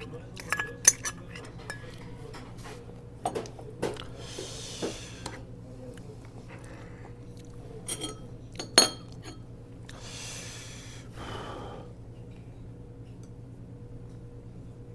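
Metal spoon and chopsticks clinking against bowls and dishes during a meal, with a cluster of sharp clinks in the first second and another about eight to nine seconds in. Two longer breathy sounds come about four and ten seconds in, over a faint steady hum.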